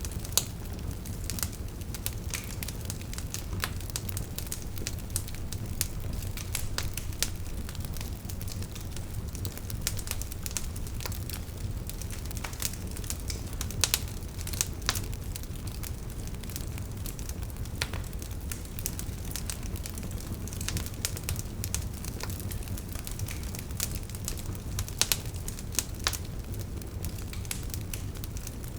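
Wood fire burning, with a steady low rumble of flames and irregular crackles and pops from the burning logs, a few louder pops standing out.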